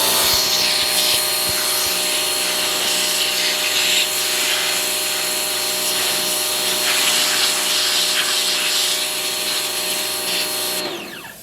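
A motor-driven machine spins up with a rising whine, runs steadily with a high, even whine, and winds down near the end.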